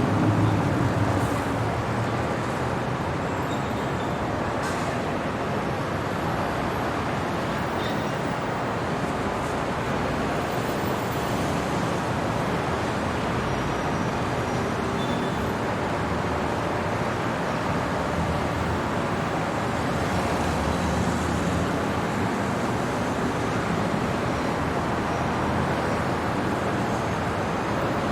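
Steady city traffic noise: a continuous wash of passing vehicles, with a slightly louder pass in the first second or two.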